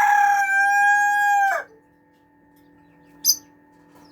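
Rooster crowing: the long, held final note of the crow, loud and steady, drops away about a second and a half in. A brief high chirp follows near the three-second mark.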